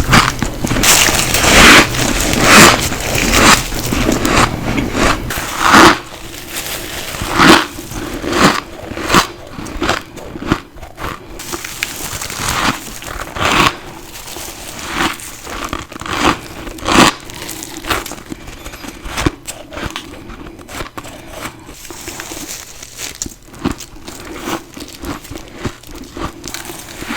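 Ice being bitten and crunched in the mouth close to the microphone: a quick run of loud crunching bites over the first six seconds, then single bites every second or few, with quieter crackling chewing between them.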